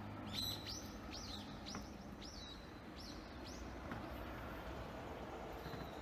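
A small bird chirping about eight times in quick succession, each short high call falling in pitch, over a faint steady background hum.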